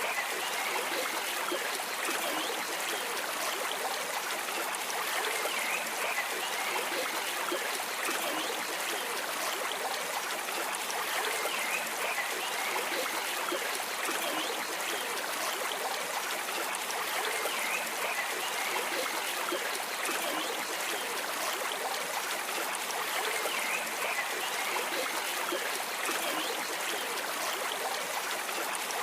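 Stream water flowing and trickling steadily, gently swelling every few seconds.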